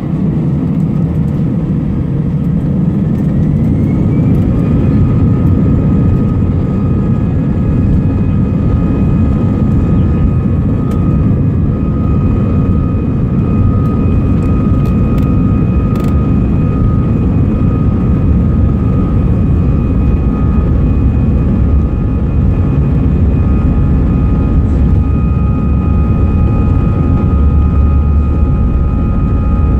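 Jet airliner's engines spooling up to takeoff thrust: a whine rises in pitch a few seconds in, then holds steady over a heavy, continuous rumble.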